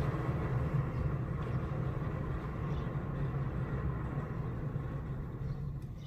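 Engine running steadily with a low rumble, swelling suddenly louder at the very end.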